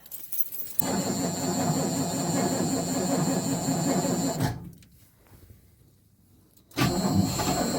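Starter motor cranking a cold car engine in a steady rhythm for about three and a half seconds without it catching, stopping, then cranking again near the end.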